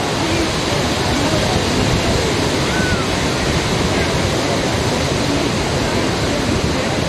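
Steady rushing noise of sea surf breaking on the beach.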